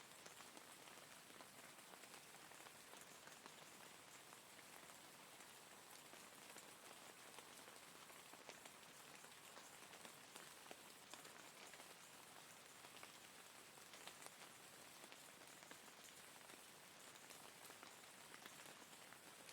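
Steady, soft rain falling, an even hiss with many fine drop ticks.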